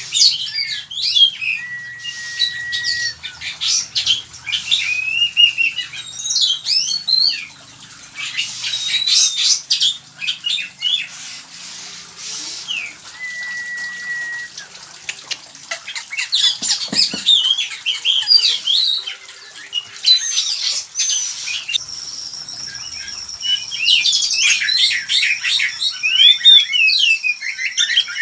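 Oriental magpie-robins singing and calling: a busy run of varied chirps, squawks and whistles, with a few held single-pitch whistles. From about three-quarters of the way through, a steady high thin tone sounds beneath the birds.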